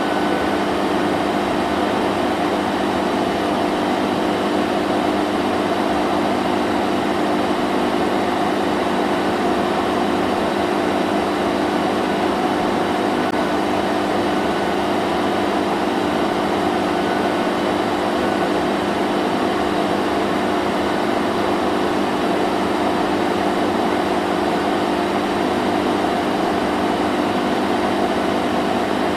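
Vacuum cleaner running steadily: an even motor hum with a constant airflow hiss, never changing in pitch or level.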